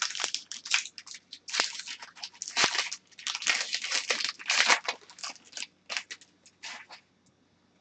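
Trading cards and their plastic packaging being handled: a quick run of short rustling, sliding and crinkling sounds that stops about seven seconds in.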